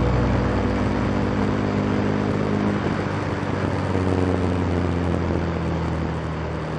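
Motorcycle running at a steady speed, with a rush of wind noise on the onboard camera.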